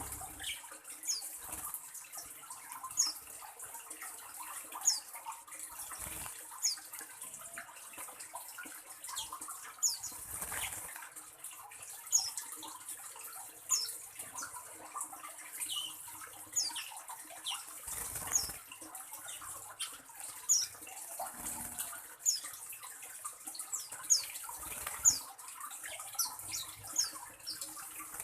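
Small bird giving short, high, downward-sliding chirps about once a second or more, over a steady high hiss, with a few dull thumps.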